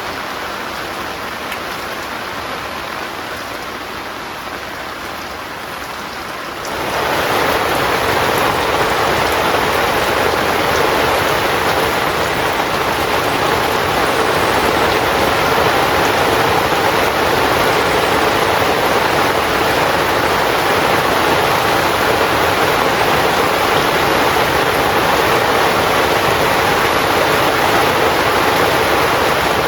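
Heavy rain falling on a tent, a dense, even hiss. It turns abruptly louder about seven seconds in.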